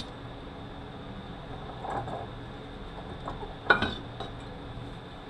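Metal transmission parts being handled on the bench: a soft knock, then a sharp metallic clink about three and a half seconds in and a lighter one just after.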